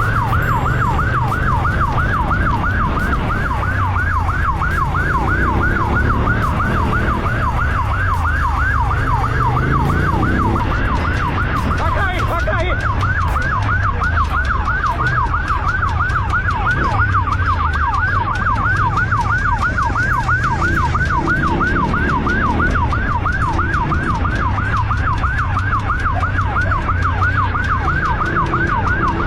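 Police siren in a fast yelp, its pitch sweeping up and down several times a second without a break, over the low, steady running of a motorcycle engine.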